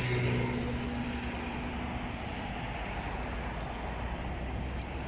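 A vehicle engine hums past and fades away over the first couple of seconds, over a steady low outdoor rumble.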